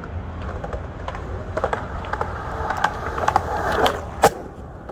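Skateboard rolling with scattered clicks and clacks, the rolling noise swelling louder in the second half, then one sharp clack of the board a little after four seconds in.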